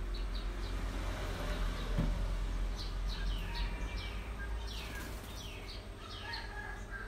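Small birds chirping in quick, falling chirps that come thick and fast from a few seconds in, over a steady low rumble, with a soft low thump about two seconds in.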